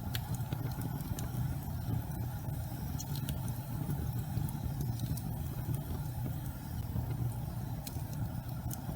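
Gas fireplace burning with a steady low rumble of flame, with a few faint, sharp crackles or ticks scattered through it.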